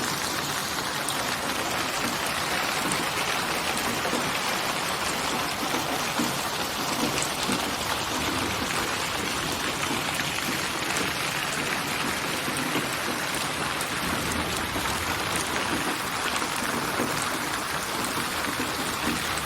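Steady rain with a fine patter of drops hitting a surface.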